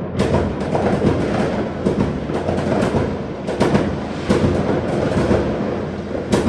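A barrage of fireworks going off: continuous rapid bangs and crackles over a low rumble, with several sharper reports standing out.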